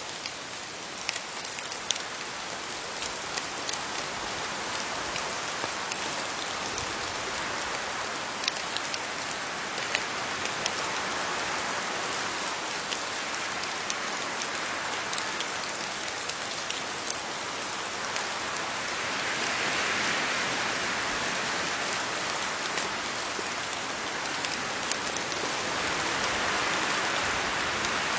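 Steady rain falling on leaves, with individual drops ticking sharply against them. The downpour swells a little twice, about two-thirds of the way in and again near the end.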